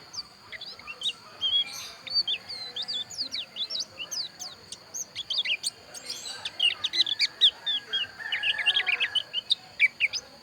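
A white-eye (pleci) singing a fast, jumbled run of short high chirps and twitters, busiest in the second half. A steady high-pitched tone runs underneath.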